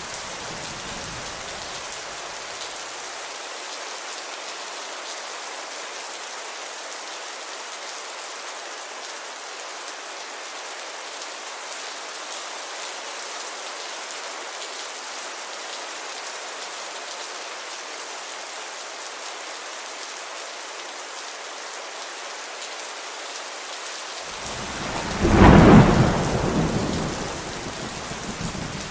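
Steady rainfall hissing throughout. The low tail of a thunder rumble fades out in the first few seconds, and about 25 seconds in a loud roll of thunder swells up, peaks and dies away over roughly three seconds.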